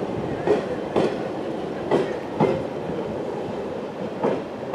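Railway wagons rolling along the track with a steady rumble, the wheels knocking over rail joints in irregular clacks every half second to two seconds.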